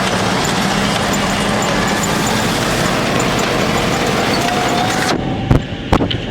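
ZIL-131 army truck's V8 petrol engine running amid loud, dense noise that drops off suddenly about five seconds in, followed by two sharp knocks near the end.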